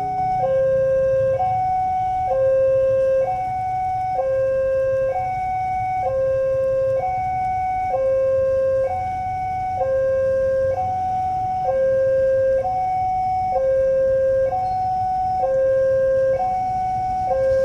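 Railway level-crossing warning alarm sounding an electronic two-tone hi-lo signal, switching between a higher and a lower tone about once a second, the warning that a train is approaching the crossing. A steady low rumble runs underneath.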